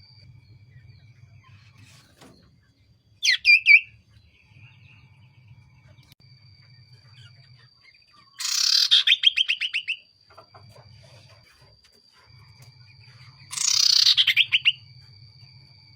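Common iora (cipoh) calling: a short double chirp about three seconds in, then two loud rapid trills that fall in pitch, one around the middle and one near the end.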